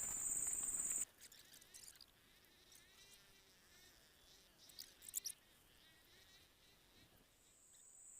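A steady, high-pitched insect whine that cuts off abruptly about a second in. After that there are only faint rustles and a few soft clicks, and the whine fades back in near the end.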